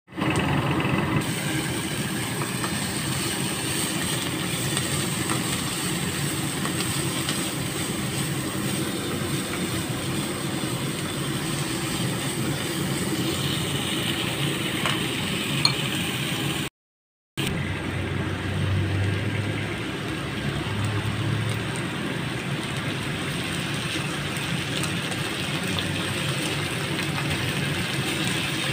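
Diced onions, bell peppers and beef sizzling in an oiled frying pan as a spatula stirs them, a steady frying hiss. The sound cuts out briefly a little past halfway.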